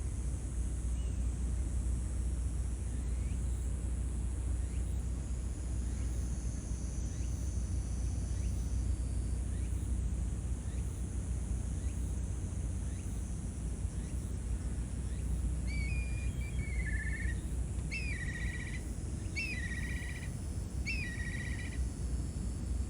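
Steady low outdoor rumble with faint scattered chirps. Near the end a bird calls four times, about one and a half seconds apart, each call swooping down and then holding a level note.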